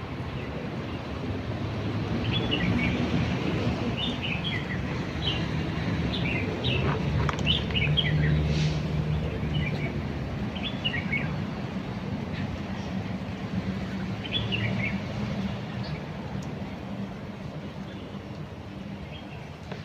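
Wild birds giving many short, quick chirps, heavier in the first half and thinning out later, over the low rumble and hum of road traffic that swells around the middle as a vehicle passes.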